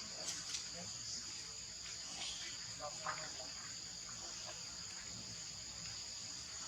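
A steady, high-pitched drone of insects, like crickets or cicadas, sitting on two constant tones, with a few faint short clicks and squeaks scattered through it.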